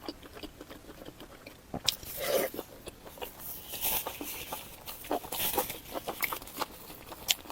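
Close-miked eating sounds: chewing with many short wet clicks and lip smacks, and a brief slurp-like hiss in the middle.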